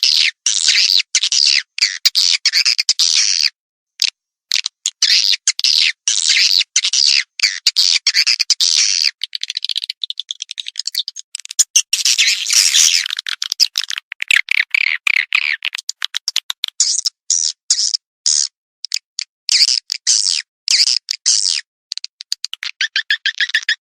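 Swiftlet lure call: rapid, dense chirping and twittering of swiftlets, played in runs a few seconds long with short breaks between them.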